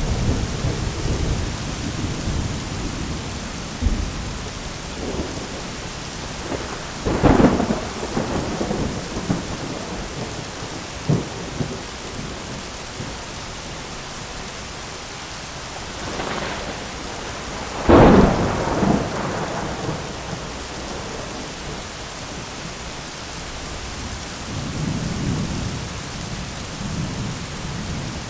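Thunderstorm: steady heavy rain hiss with rolling thunder. Two sharp, close thunderclaps come about 7 and 18 seconds in, the second the loudest, with lower rumbles near the start and near the end.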